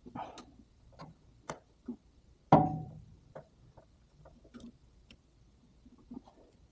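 Scattered light clicks and knocks of tools and parts being handled during engine work, with one loud sharp knock about two and a half seconds in that rings on briefly.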